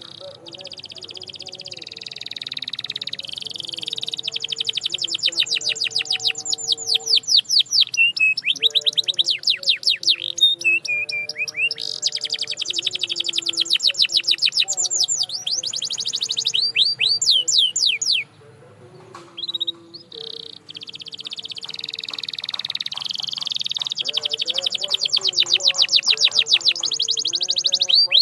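Canary singing: long phrases of fast rolling trills and rapidly repeated notes, with a few quick falling sweeps. The song breaks off briefly about two-thirds of the way through and then starts again.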